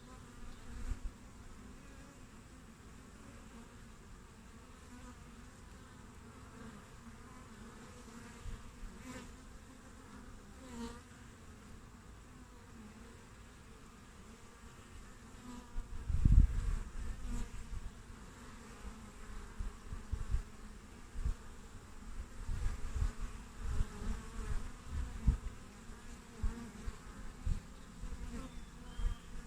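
Honeybees buzzing as they fly in and out at the hive entrance, a steady hum. From about halfway through, irregular low thuds and rumbles cut in, the loudest of them at about the middle.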